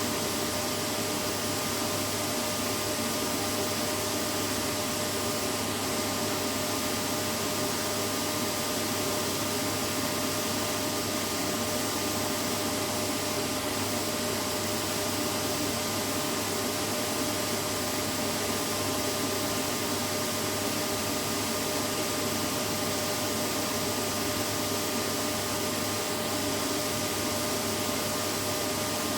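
Vacuum cleaner running steadily, a constant whooshing hiss of airflow with a faint motor whine, unchanging throughout, played as white noise to soothe a baby to sleep.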